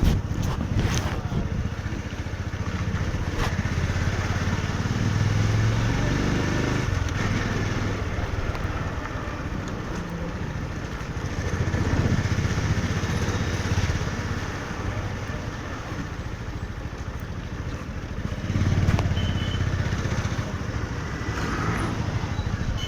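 Motorcycle engine running on the move through city traffic, its sound swelling three times as the bike picks up speed.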